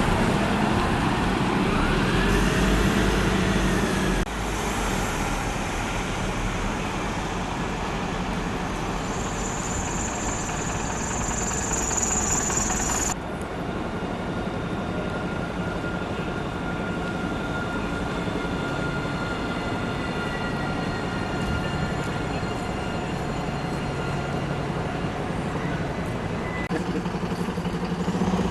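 Public transport vehicles running and passing, in what sounds like three short clips cut together, with sudden changes about four seconds in and again about thirteen seconds in.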